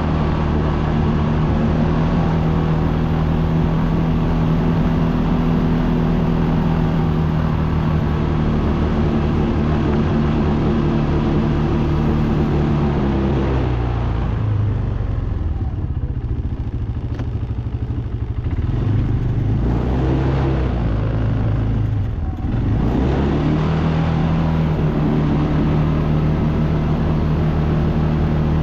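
ATV engine running at a steady throttle. About halfway through its note drops as the throttle eases off, then it climbs back to the same steady pitch a few seconds before the end.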